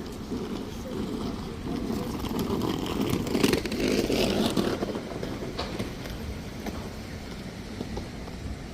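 A motor vehicle passing close by, its sound swelling to a peak about three and a half seconds in and fading away, over a steady low rumble of city traffic.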